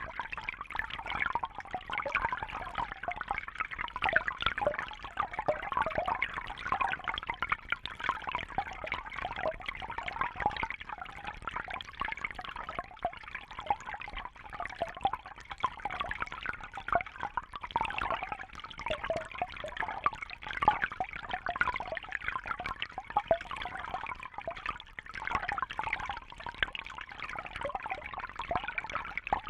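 Fish tank water trickling and bubbling steadily: a continuous, dense patter of small splashes and bubbles.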